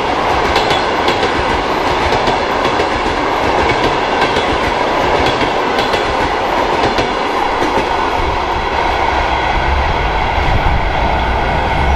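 Passenger train coaches rolling past, a steady rolling rumble with the wheels clicking over the rail joints. The clicking thins out in the second half as the last coach goes by and moves away.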